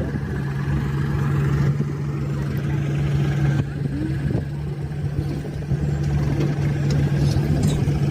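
A heavy diesel engine running steadily at a constant speed, giving a low, even hum.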